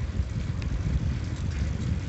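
Wind buffeting a phone's microphone while riding a bicycle: a low, uneven rumble.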